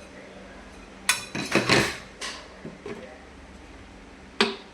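Dishes and pots clattering as they are handled, a quick run of knocks and scrapes about a second in, then lighter knocks and one sharp knock near the end.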